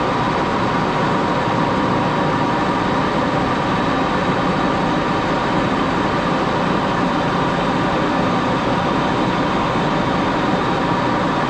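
Axelson metal lathe running steadily while turning a small screw blank: an even mechanical noise with a faint steady whine.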